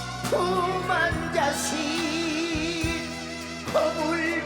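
Trot song performed live: held notes sung with a wide vibrato over a backing band.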